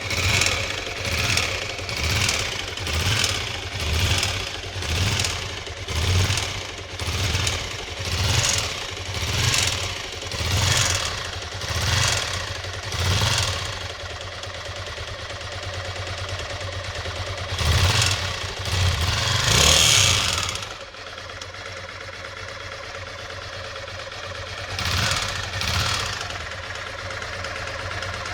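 Honda NX250's 250cc single-cylinder engine running with an abnormal knock, revved in short, evenly spaced blips about every 0.7 s, then held steadier with a couple of revs before settling lower. The uploader suspects crankshaft failure or a cam chain problem.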